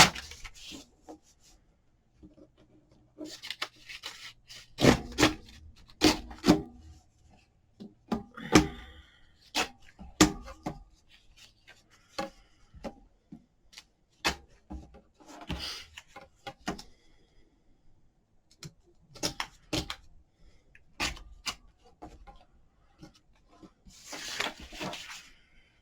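Hands working paper on a craft table: scattered light taps and knocks of tools and paper being set down, with a few short rubbing and scratching strokes on paper, the longest near the end.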